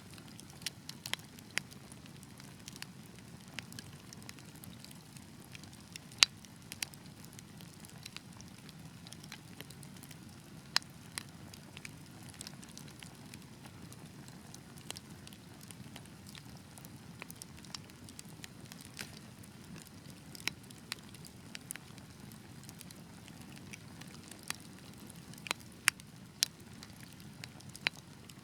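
Wood fire burning with a low steady rumble of flames and irregular sharp crackles and pops from the logs, the loudest pop about six seconds in and a few more near the end.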